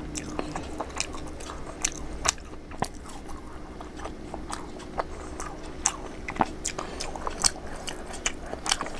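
Close-up crunching and chewing of crisp, hollow pani puri (golgappa) shells: irregular sharp crackly crunches, several a second at times.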